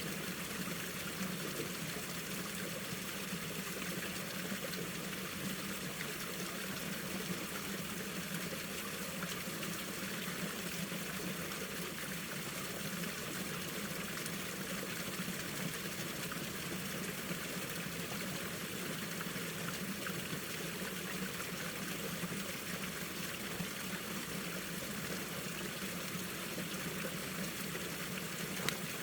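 Mountain stream running steadily over rocks, an even rushing with small splashes throughout.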